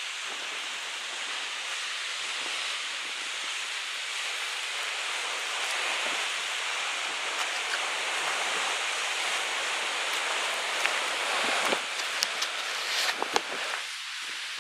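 Steady rushing noise of ocean surf and wind at a clifftop, with a few sharp clicks and knocks near the end.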